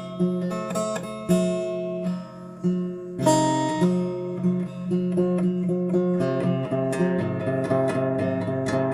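Acoustic guitar played solo, single plucked notes and chords left to ring. About six seconds in, the picking turns quicker and steadier, with lower bass notes joining.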